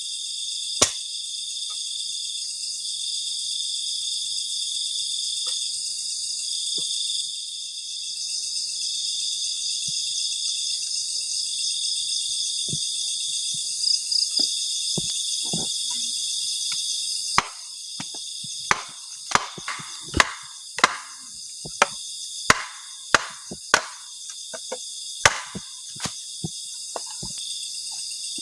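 Steady night chorus of crickets and other insects, with sharp knocks and cracks, a few at first and then many in quick succession over the last ten seconds.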